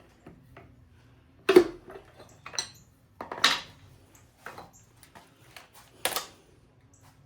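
Metal parts and tools clanking during piston and connecting-rod removal from an engine block: four sharp clanks spread over a few seconds, with lighter ticks and knocks between them.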